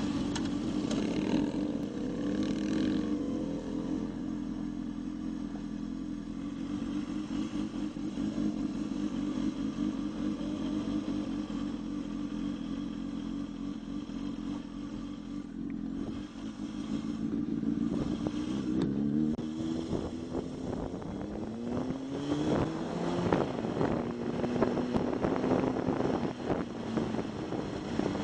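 Motorcycle engine heard from the rider's seat. It pulls away at the start, then runs at a steady pitch for a long stretch. From about two-thirds of the way in it speeds up again, with the pitch repeatedly rising and dropping as it shifts up through the gears, and the wind noise grows.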